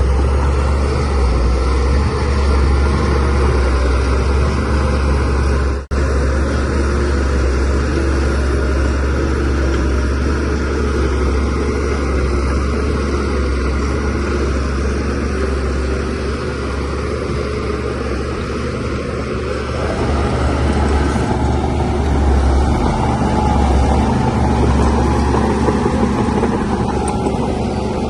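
DH17C3PRO bulldozer's diesel engine running steadily with a deep low hum, cutting out for an instant about six seconds in.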